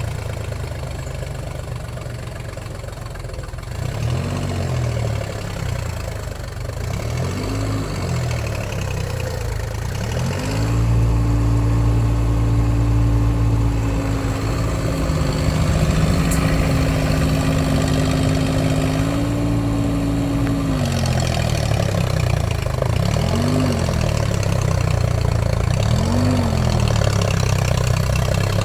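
Deutz-Fahr tractor's diesel engine idling, revved up in two short blips, then held at a higher speed for about ten seconds before dropping back, followed by two more short blips.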